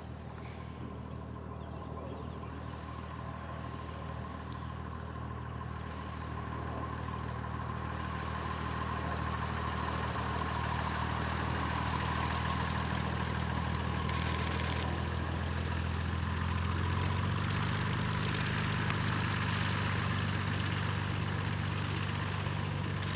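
Propeller engine of a Cessna 170 (a six-cylinder Continental) running at low power on a landing approach. It grows steadily louder as the plane comes closer, and its engine note changes about two-thirds of the way through.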